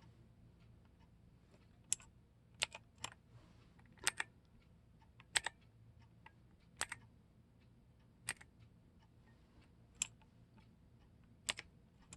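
Hansung XK1 BossMonster KLv.75 mechanical keyboard with clicky blue switches, single keys pressed one at a time about every second and a half, each press a sharp click, some heard as a quick double click.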